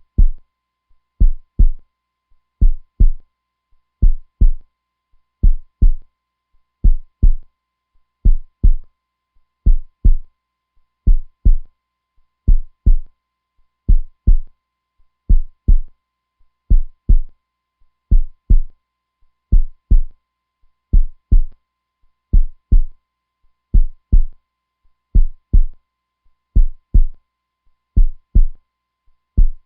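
Heartbeat sound: steady double thumps, lub-dub, low and deep, about one beat every 1.4 seconds.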